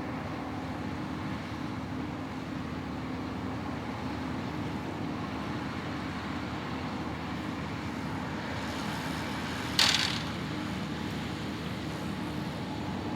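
A vehicle engine running steadily at an even speed, with a short, sharp hiss just under ten seconds in.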